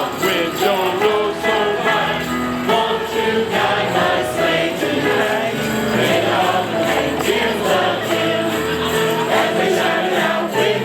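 A choir singing a holiday song over instrumental backing with a steady bass line.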